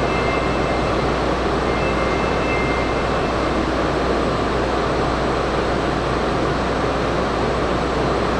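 Steady hum and rushing of a stationary N700S Shinkansen train's equipment running at the platform, with faint high tones in the first few seconds.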